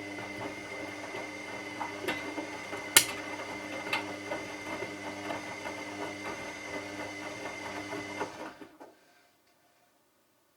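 Washing machine drum motor running, a steady hum with a high whine, turning the drum. There are a few sharp knocks about two, three and four seconds in, the one at three the loudest. The motor stops about eight and a half seconds in, leaving silence.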